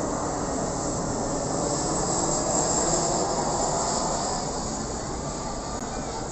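Jet airliner's engines running as the plane passes, the noise swelling to a peak about halfway through and then slowly fading.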